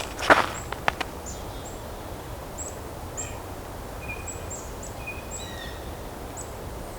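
Mixed winter flock calling: a white-breasted nuthatch and a blue jay, among many short, thin, high call notes that drop in pitch. A couple of sharp crunching steps in the first second.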